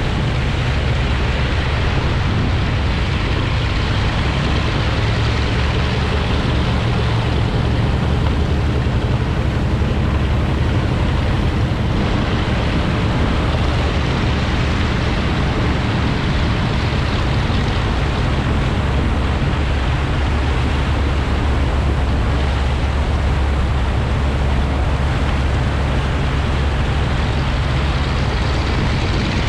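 Steady, loud low engine drone mixed with rushing water and wind noise, from a boat running alongside a taxiing flying boat with its radial engines turning.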